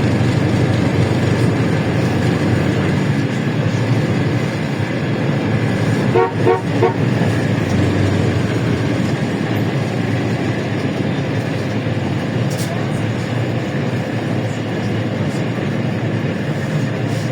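Steady running drone of a LiAZ-677M bus's V8 engine and road noise on the move. About six seconds in, a vehicle horn gives a quick series of about four short toots.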